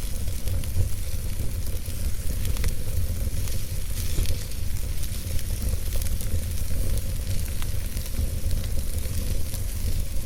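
Wood logs burning in a fireplace: a steady low rumble of flames under a soft hiss, with frequent sharp crackles and pops scattered at random.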